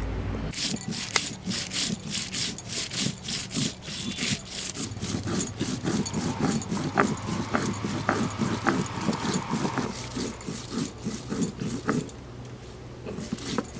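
Dried red chillies and cumin ground on a flat grinding stone with a stone roller: quick, even scraping strokes, about three a second, that ease off briefly near the end.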